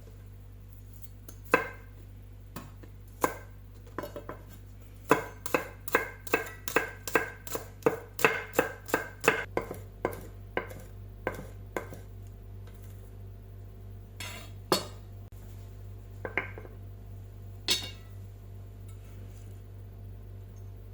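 Kitchen utensils clinking against dishware: a few single clinks, then a run of quick ringing strikes, about three a second, for around five seconds, then a few more scattered clinks, over a steady low hum.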